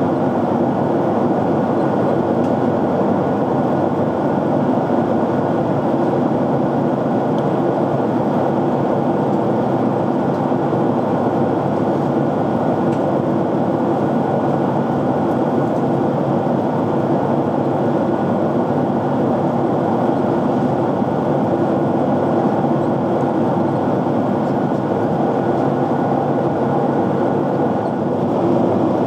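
Airliner cabin noise in flight: a steady rush of airflow and engine noise, with a faint constant high whine over it.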